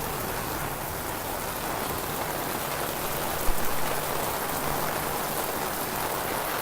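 Steady rain falling, an even hiss of drops on surfaces, with one brief knock about three and a half seconds in.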